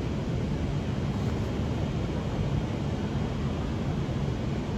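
Steady low rumble and hiss of a railway station platform, with no distinct events.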